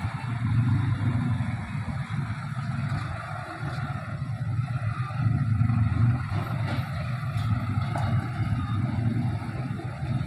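A train passing, with a steady low rumble that swells and eases.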